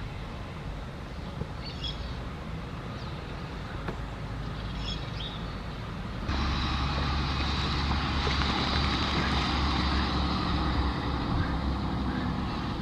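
Steady low rumbling background noise that steps up louder about halfway through, with two brief faint bird chirps in the first half.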